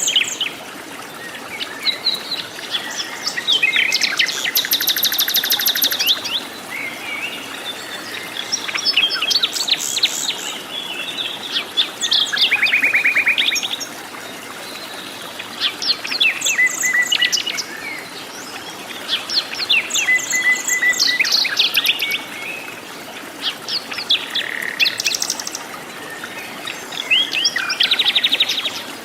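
Several forest birds calling and singing over one another: fast trills, chirps and whistled phrases follow each other throughout, over a steady background hiss.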